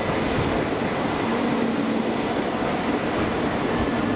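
A coupled 16-car Tohoku Shinkansen train pulling slowly into the platform. Its wheels and running gear make a steady rolling rumble, with a low hum and a faint high whine.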